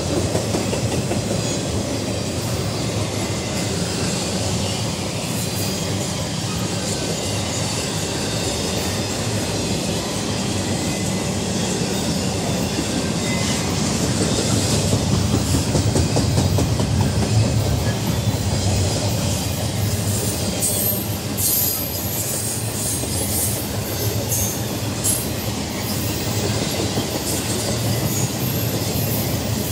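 Cars of an intermodal freight train rolling past: a steady rumble of steel wheels on the rails, louder about halfway through, with short sharp metallic clicks in the second half.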